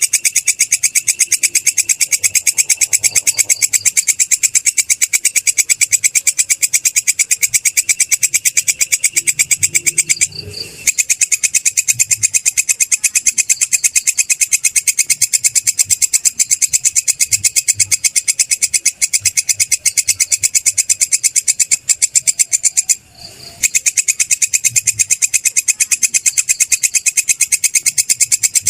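A belalang kecek (katydid) stridulating: a high, rapid, evenly pulsed buzzing trill that stops briefly twice, about ten seconds in and again past twenty seconds.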